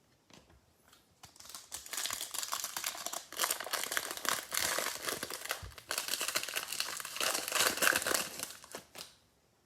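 Plastic trading-card pack wrapper being torn open and crinkled by hand, a dense irregular crackle lasting several seconds.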